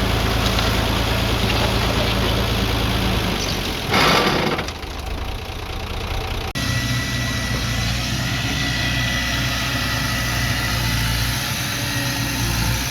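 Heavy-equipment diesel engine idling steadily. About four seconds in, a short loud rushing noise cuts across it. The engine sound then thins and returns abruptly a couple of seconds later.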